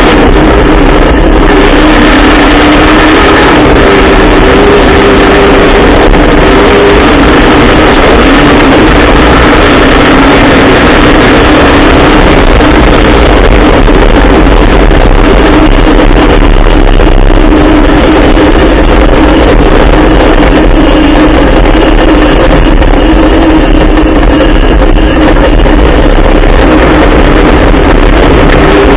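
Trophy truck's Dart 363 Coyote-based Ford V8 running steadily and very loud, its pitch wavering only a little, the recording overloaded.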